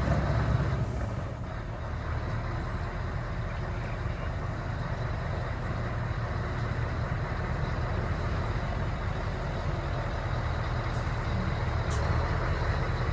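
Heavy truck's diesel engine running steadily, with a deep rumble and a couple of brief hisses near the end.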